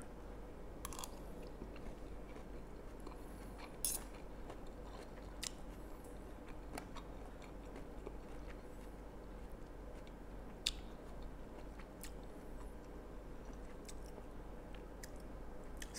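A person chewing a mouthful of stir-fried bamboo shoots, picked up close by a clip-on microphone, with a few sharp clicks of a spoon and fork on a plate.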